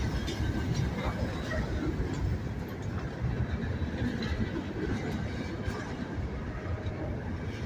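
Freight train's hopper cars rolling slowly past, a steady rumble of steel wheels on rail with faint squeals and light clicks.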